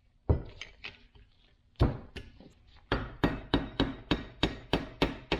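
Hammer blows on a Toyota FJ40 Land Cruiser steering gearbox to loosen a part: two single knocks, then a quick run of about ten even taps at about four a second.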